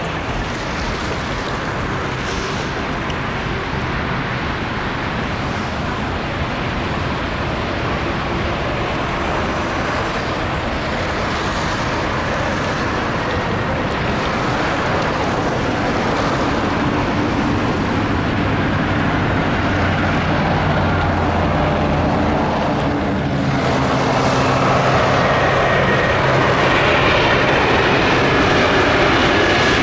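Jet airliner engines running: a steady rushing noise with a low hum underneath, growing louder about three-quarters of the way through.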